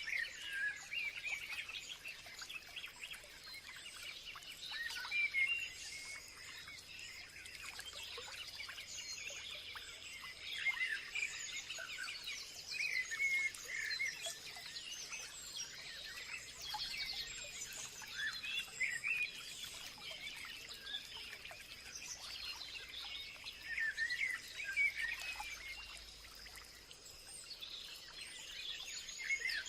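Many small birds chirping and singing at once, a dense overlapping chorus of short high calls and trills, with a faint steady high tone underneath.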